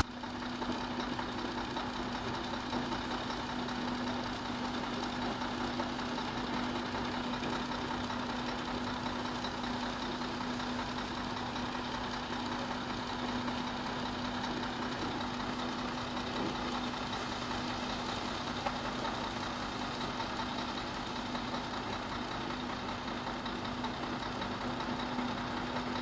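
Heavy diesel engine running steadily at a low, even speed, with a constant hum and no revving.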